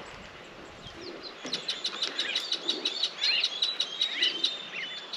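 Wild birds calling: a quick run of short, high chirps and twittering notes, several a second, starting about a second and a half in.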